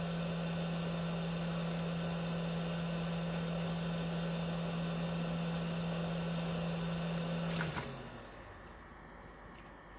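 Hot air rework station's blower running with a steady hum and air hiss, switched off with a click about eight seconds in, its hum winding down and fading.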